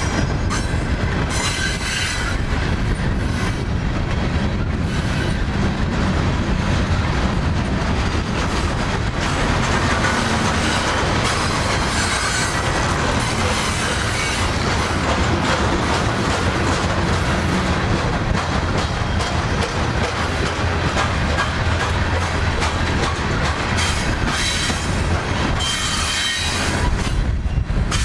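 Coal hopper cars of a long, slow freight train rolling past on the rails: a steady rumble of steel wheels on track with rhythmic clicking as the wheel sets pass, and a faint high wheel squeal at times.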